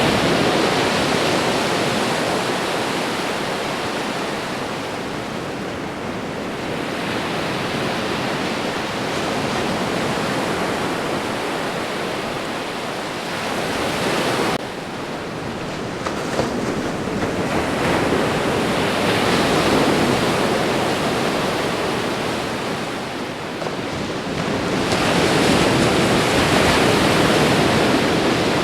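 Ocean waves washing onto a shore: a continuous rush of surf that swells and fades, with louder surges about every eight to ten seconds and a sudden dip in level about halfway through.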